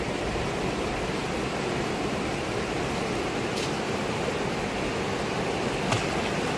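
Fast-flowing river rushing steadily, with two brief clicks, about three and a half and six seconds in.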